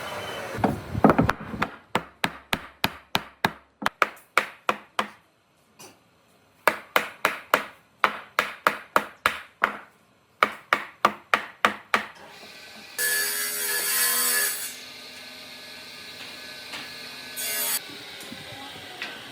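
Wood being hand-sawn in steady strokes, about three a second, in three runs with short pauses. A brief, louder burst from a power tool follows, then a shorter one near the end.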